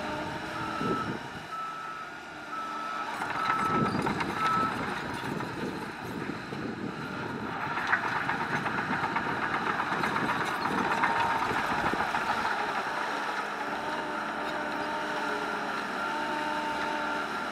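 Heavy machinery's backup alarm beeping in a regular series over continuously running engines, the engine noise swelling twice, around four seconds in and again around eight to twelve seconds.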